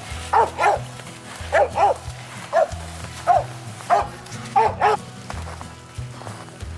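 Hunting dog barking repeatedly, about nine short barks in the first five seconds with a pause partway through, then stopping; the steady, spaced barking fits a tree dog barking at a treed squirrel. Background music plays underneath.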